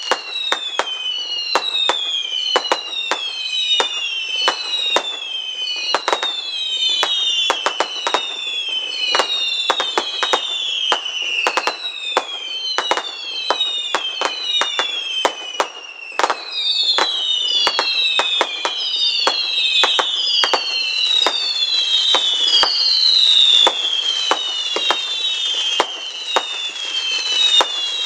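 Fireworks display with a dense barrage of whistling fireworks: many overlapping whistles, each falling in pitch over about a second, among frequent sharp bangs and cracks.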